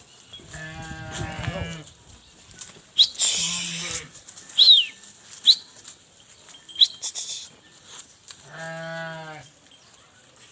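A farm animal calls twice, each a drawn-out call of about a second, one near the start and one near the end. Several short, high chirps fall in between.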